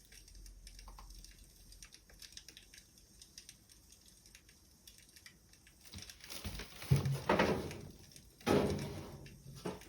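Wood fire crackling with faint, sparse pops, joined about six seconds in by louder rustling and a couple of dull thumps.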